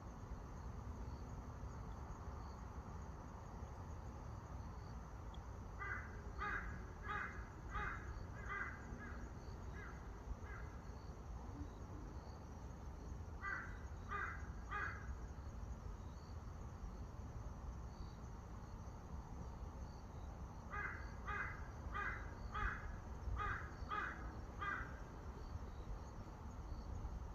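A bird calling in three series of short, harsh repeated notes, about two a second, over a steady low outdoor rumble.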